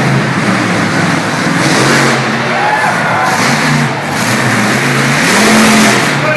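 Monster truck engine running loud and revving, its pitch stepping up and down, with a louder surge about five seconds in.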